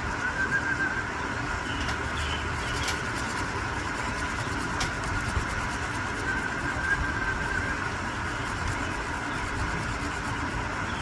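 A steady mechanical hum with a continuous noise underneath, and a few faint short chirps.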